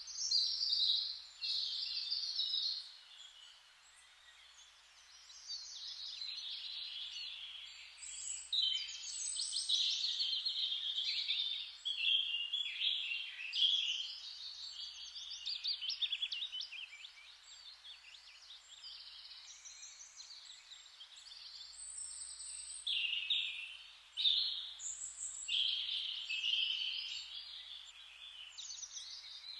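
Several songbirds singing at once, overlapping high chirps and trills that come in phrases of a few seconds, with quieter gaps about four seconds in and around eighteen to twenty-two seconds in.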